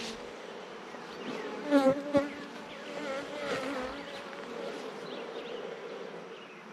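Honey bees buzzing around an open hive, single bees flying close by with a wavering, rising and falling drone, loudest about two seconds in.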